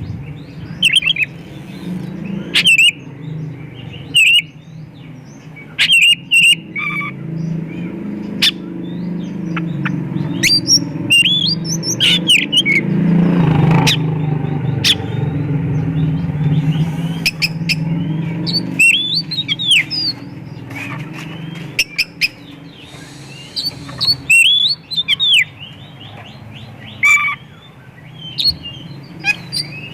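Oriental magpie-robin (kacer) singing loudly and persistently: irregular phrases of sharp notes, chirps and whistled glides in the full, mimicry-packed song that keepers prize. A steady low hum runs underneath, swelling for a while in the middle.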